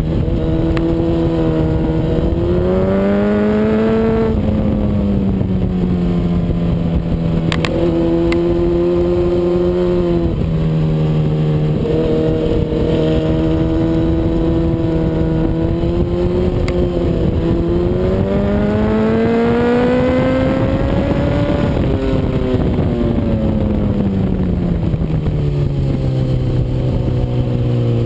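Honda CBR RR sportbike's inline-four engine heard onboard at track speed. Its pitch rises and falls repeatedly, with sudden drops a few times, then a long climb and a long fall late on.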